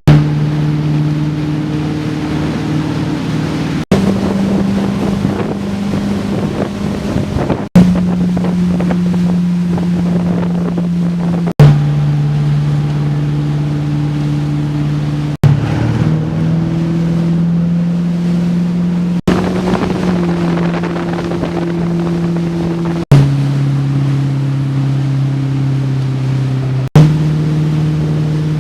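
Motorboat engine running with a steady hum over wind buffeting and water noise. The sound comes as a string of short takes about four seconds long; at each sudden cut there is a click and the engine's pitch shifts.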